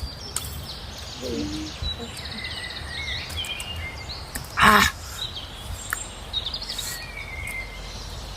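Small birds chirping and whistling over a low outdoor rumble, with one brief loud noise a little past the middle.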